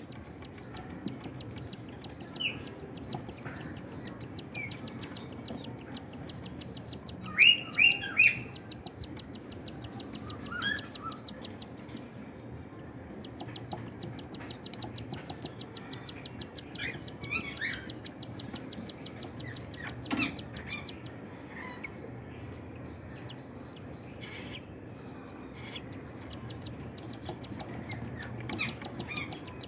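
Cockatiels chirping in short, scattered calls, with three loud chirps in quick succession about a quarter of the way in. A fast, fine ticking sound runs high above the chirps through much of it, over a faint low hum.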